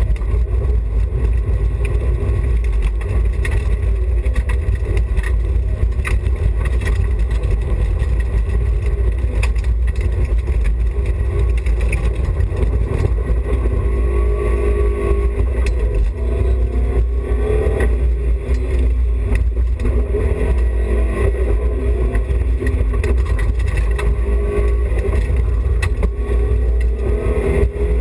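BMW E30 316i rally car's 1.6-litre four-cylinder engine driven hard, revs climbing and falling repeatedly, over a constant deep rumble of road and tyre noise.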